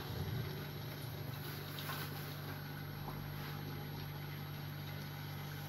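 Urad dal batter for dahi vada frying in hot oil in a kadhai: a steady sizzle and bubbling, with a low steady hum underneath.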